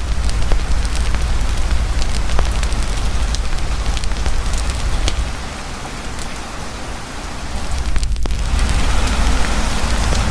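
Heavy rain pouring steadily over a crackling wood campfire, with scattered sharp pops from the fire. The rain's low rumble eases about halfway through, then comes back after a brief break near the end.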